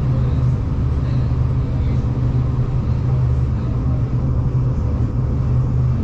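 V/Line passenger train running, a steady low rumble heard from inside the carriage.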